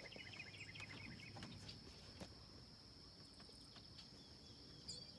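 Faint chirping of small birds, a quick run of short high calls in the first second or two, over a steady thin high-pitched whine.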